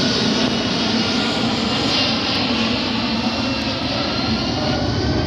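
Fixed-wing aircraft engines running steadily: a continuous loud rushing noise with a faint whine in it.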